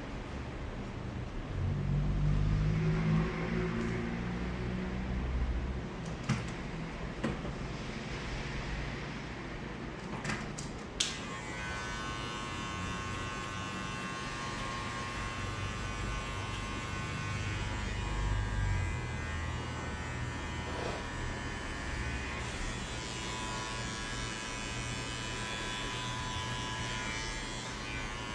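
Electric hair clippers cutting hair for a fade. About a third of the way in, after a couple of sharp clicks, they start a steady buzzing hum that carries on to the end. Before that come low rumbling handling noises and occasional clicks.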